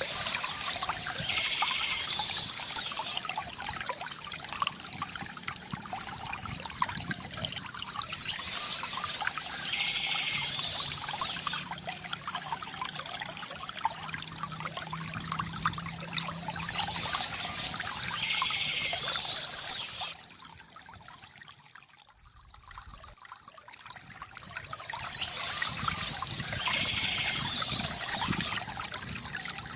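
Small stream trickling and splashing steadily over stones. A brighter, busier stretch of the same water sound comes back about every nine seconds, and the sound dips nearly away for a couple of seconds a little past two-thirds of the way through before returning.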